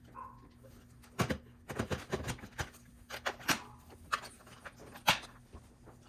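A string of sharp clicks and knocks from vacuum parts being handled and fitted, between bouts of running the vacuum.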